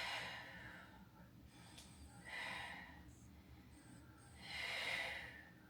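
A woman breathing audibly with effort in a steady rhythm, three breaths about two and a half seconds apart, while holding a Pilates bridge with alternating heel lifts.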